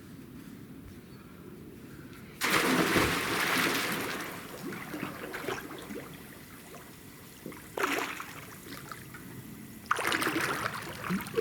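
Water splashing and pouring in three bursts, each starting suddenly: a long one a couple of seconds in, a short one about two-thirds through, and another near the end.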